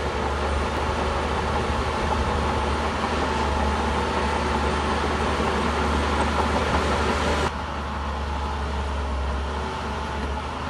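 Shantui bulldozer's diesel engine running steadily with a deep low drone. About seven and a half seconds in, the sound drops suddenly to a slightly quieter, duller tone.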